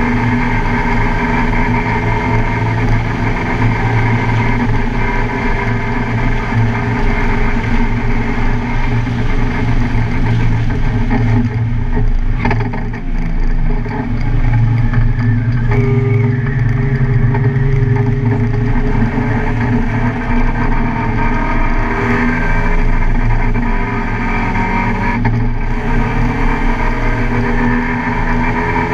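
Car engine running hard at speed on a race track, its pitch rising and falling with throttle and gear changes, with a brief drop in loudness about twelve seconds in.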